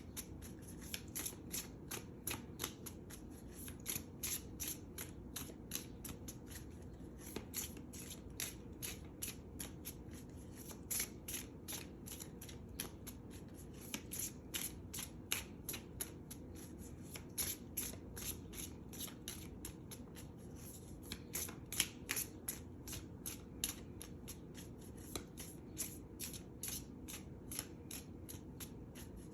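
Tarot cards being shuffled by hand: a steady run of soft card clicks and flicks, several a second, as the deck is shuffled to draw a clarifier card.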